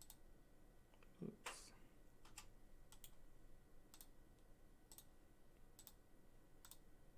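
Faint, sparse single clicks at a computer, about one a second, from keys or a mouse being worked.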